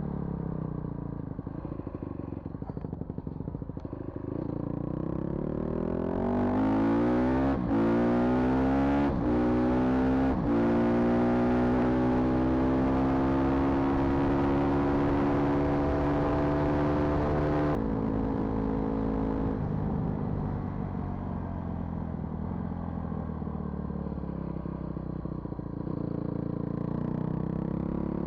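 Vehicle engine accelerating hard, its pitch climbing through three quick breaks like gear changes, then holding high revs steadily. About eighteen seconds in it suddenly drops back and settles into lower, gentler running.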